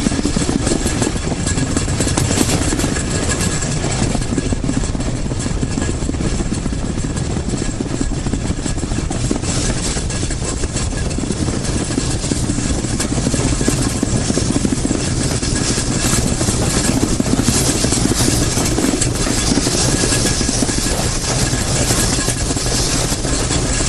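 Steam train running, a steady rumble with hiss that holds level throughout.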